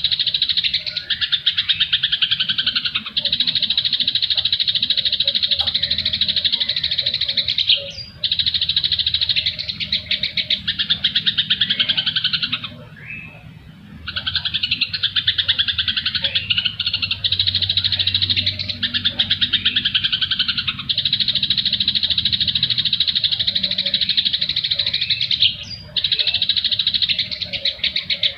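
Dense, unbroken songbird chirping and chattering from a masteran bird-song training recording that layers cucak jenggot (grey-cheeked bulbul) song, fighting house sparrows and siri-siri calls. The rapid chatter drops out briefly three times, longest for about a second near the middle.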